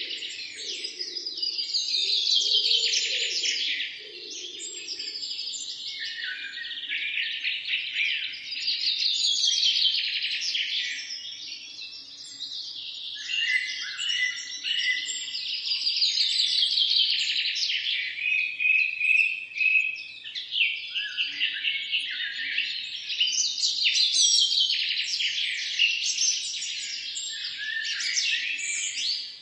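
Several songbirds singing at once in a continuous chorus: long, rapid trilled phrases that sweep down in pitch, overlapping and following one another every few seconds.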